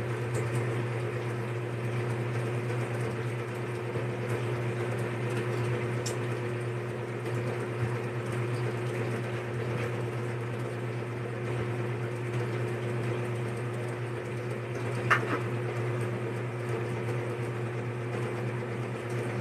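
A steady low machine hum, with a few faint clicks and crackles of shrimp shells being peeled by hand.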